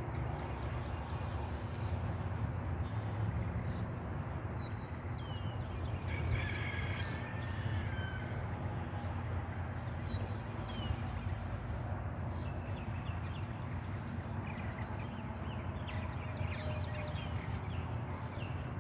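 Small birds chirping and calling, short rising and falling notes scattered throughout and busiest a third of the way in and again near the end, over a steady low rumble.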